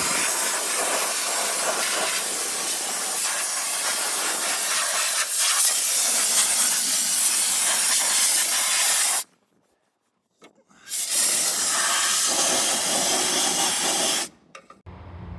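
Hissing jet of a spray wand blasting degreaser or wash onto an aircraft engine. It stops for about a second and a half some nine seconds in, starts again, and stops near the end, leaving a low steady hum.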